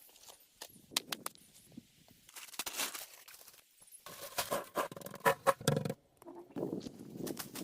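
Irregular knocks, clicks and scraping, as of wood being handled and worked, with a busier cluster of sharp knocks about five seconds in.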